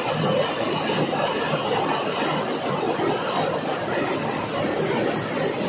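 Heavy rain pouring down steadily: a dense, even hiss of countless drops hitting the pavement.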